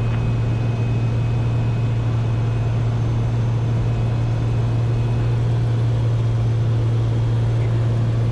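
Steady drone of a Cessna 210K's six-cylinder piston engine and propeller heard inside the cockpit in flight: a strong low hum that holds one pitch throughout.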